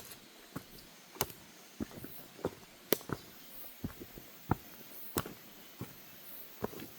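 Footsteps on a wooden deck walkway: a steady run of sharp, hollow knocks, roughly one to two steps a second.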